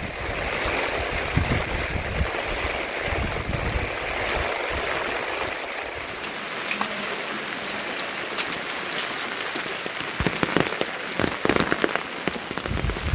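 Steady rain, with a growing patter of sharp drops hitting a nearby surface in the second half.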